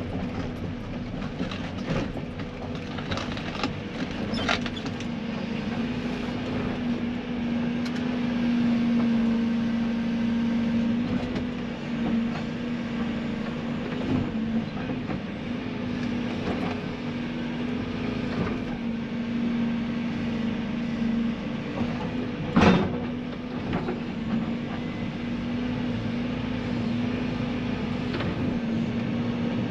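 Tracked excavator's diesel engine running steadily under hydraulic load, with scattered knocks and clunks from the bucket working soil. A single sharp clunk about three-quarters of the way through is the loudest.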